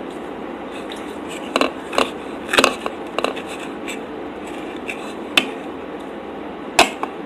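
Cutlery clinking and scraping against a plate while pancakes are cut and eaten: a handful of sharp clicks and knocks spread irregularly over a steady background hiss.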